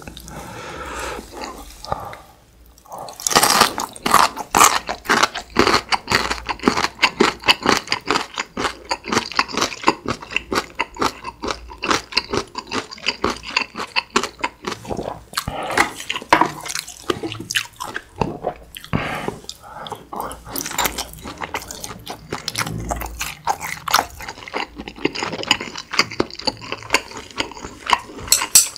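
Close-miked crunching and chewing of chonggak (ponytail radish) kimchi. After a short pause the crunching starts about three seconds in and goes on as a rapid run of crisp crunches, easing off near the end.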